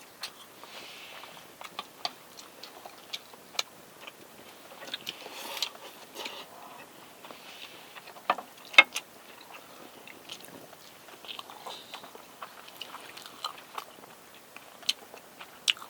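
Close eating sounds: chewing and biting, with scattered sharp clicks, the loudest a pair about nine seconds in.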